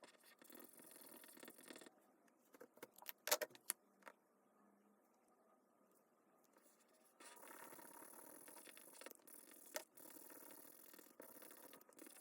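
Faint handling of plastic toys: a brief scraping rustle, a few sharp clicks about three seconds in, then a steady scraping rattle from about seven seconds on.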